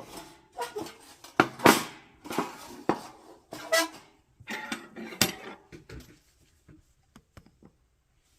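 Thin metal parts of a lightweight folding fire pit clinking and rattling as they are handled. A quick run of sharp knocks and scrapes, some ringing briefly, thins out to a few light ticks in the last couple of seconds.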